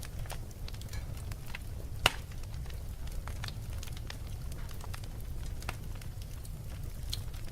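Wood fire crackling: a steady low rumble with irregular sharp pops and snaps, one louder pop about two seconds in.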